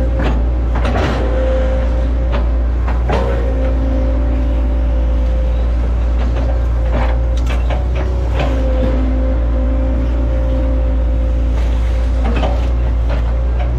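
Hitachi ZX110 excavator's diesel engine running steadily under load with a steady hydraulic whine, broken by irregular sharp knocks and cracks as the machine fells and chops oil palm trunks.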